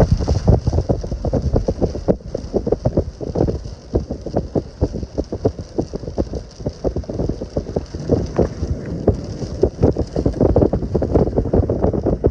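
Gusty wind buffeting the microphone in irregular low rumbling blasts.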